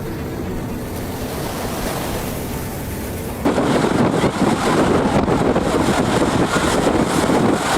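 Rough sea and wind: waves washing with wind buffeting the microphone, turning abruptly louder and harsher about three and a half seconds in.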